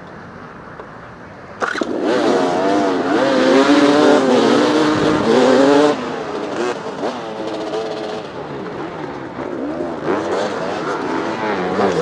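Dirt bike engines revving hard. They come in suddenly a little under two seconds in, the pitch rising and falling, then settle to a somewhat lower, uneven running after about six seconds.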